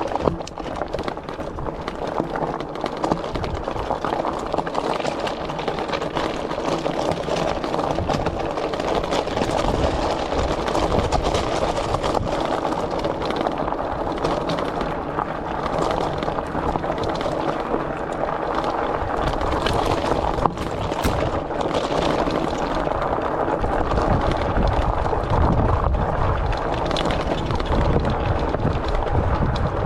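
Steady rolling noise from a Rad Rover fat-tire e-bike being ridden: tyres on the path with wind on the chest-mounted microphone. The wind rumble grows stronger near the end.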